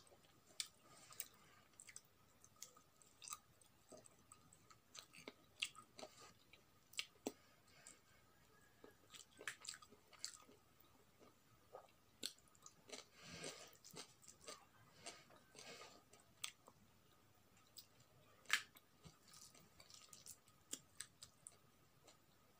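Quiet close-up eating sounds of a person chewing a rice meal eaten by hand: irregular wet mouth clicks and smacks, with a few sharper bite sounds.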